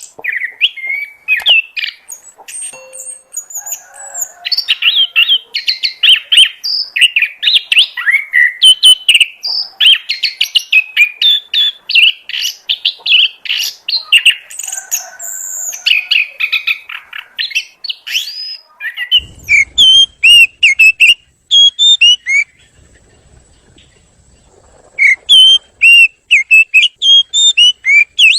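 Oriental magpie-robin (kacer) singing a long, rich, fast-changing song of whistles and chirps. About two-thirds of the way through it switches to a string of short, repeated whistled notes, pauses for a few seconds, then resumes them.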